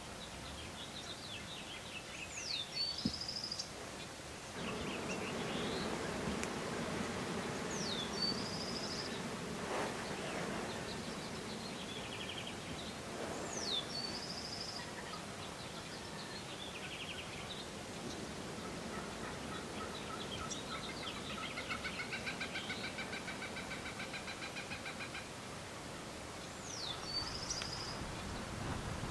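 Birdsong: a songbird repeats a short phrase four times, a quick high falling whistle ending in a brief trill. A lower, rapid rattling bird call runs for several seconds past the middle.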